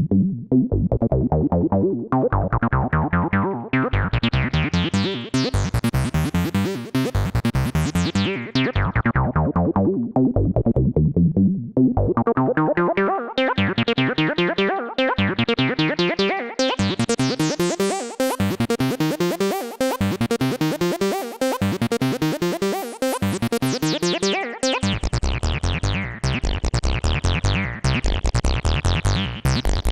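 Moog Subsequent 37 analog synthesizer playing a sequenced acid bassline of short repeating notes. Its filter sweeps open and closed in slow waves, so the line grows brighter and buzzier and then duller again. The pattern changes near the end.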